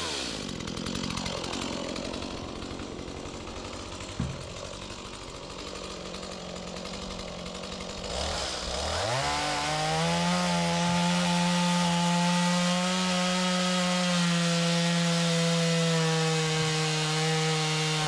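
Chainsaw running at a low idle with a single knock, then throttled up about eight seconds in and held at a steady high pitch under full throttle, as in a plunge cut into an oak round.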